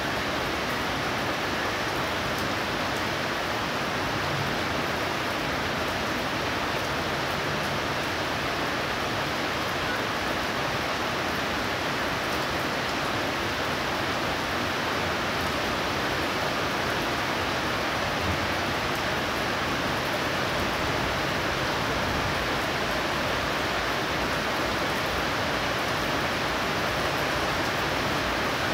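Heavy rain pouring down in a steady, dense hiss that stays even throughout.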